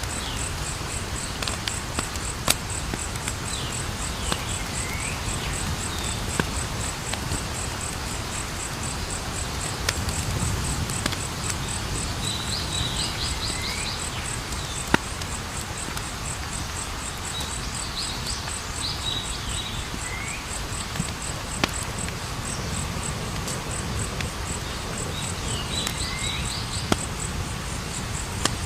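Campfire burning with a low rumble and occasional sharp crackling pops, under the steady fast chirping of crickets. Now and then a few short falling calls come in groups.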